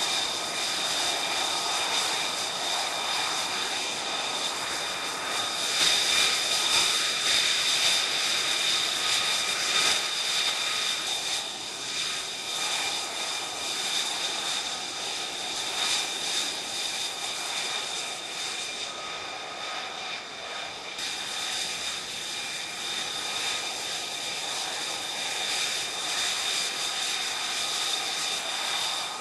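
Jet aircraft engine running steadily: a high whine of several fixed tones over a rushing roar, swelling louder about six to ten seconds in.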